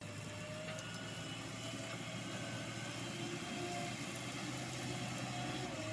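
JCB 3DX Plus backhoe loader's diesel engine running steadily at a constant low hum.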